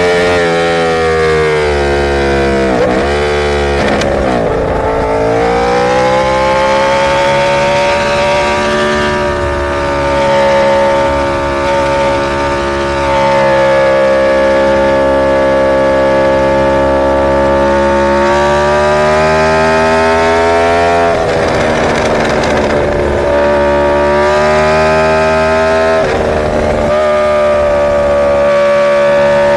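Superbike's inline-four engine pulling at high revs. Its pitch dips sharply twice in the first few seconds, then holds a steady high note, with a brief rough patch a little past twenty seconds.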